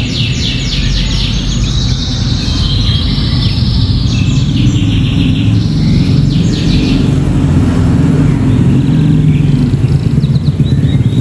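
Canary singing rapid, repeated trills, its song filled with ciblek (bar-winged prinia) phrases, dense for the first seven seconds or so and then sparser. A steady low rumble runs underneath and is the loudest sound.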